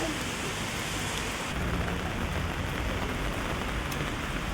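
Heavy rain falling steadily on an umbrella, with a few single drops ticking sharply, over a low rumble that grows stronger about a second and a half in.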